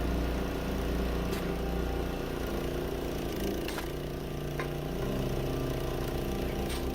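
Engine of heavy machinery running steadily, its pitch shifting down and up a couple of times, with a few faint knocks.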